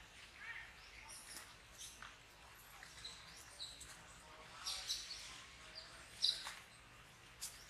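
Scattered short, high-pitched animal chirps and squeaks over a faint background hiss, the loudest a sharp squeak about six seconds in.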